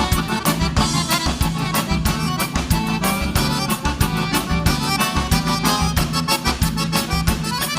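Instrumental passage of live gaúcho dance music (vaneira), led by a piano accordion over bass and a steady drum beat.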